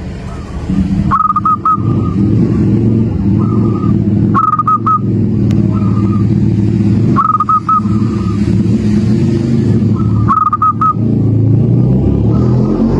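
Perkutut (zebra dove) cooing its stuttering song in four phrases about three seconds apart. Under it a loud, steady, low engine hum from a motor vehicle, which swells about a second in.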